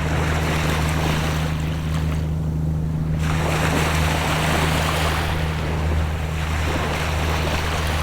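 Gentle sea waves washing in on the shore, swelling twice with a short lull between, over a steady low drone of a distant boat engine.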